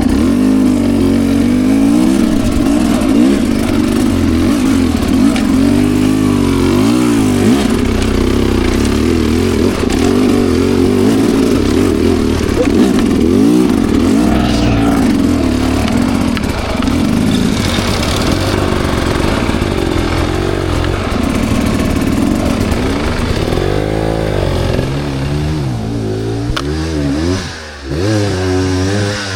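Dirt bike engine running under load, its revs rising and falling constantly as it is throttled over rough ground, with some clatter. The engine note briefly drops off near the end, then picks up again.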